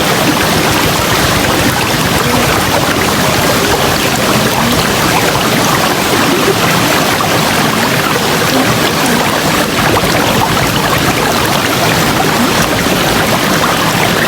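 River water rushing steadily, a dense, even noise of flowing water.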